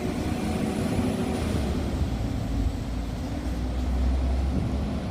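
Class 197 diesel multiple unit pulling away from the platform, its diesel engines running with a steady low rumble. A faint high whine rises and then eases off in the first couple of seconds.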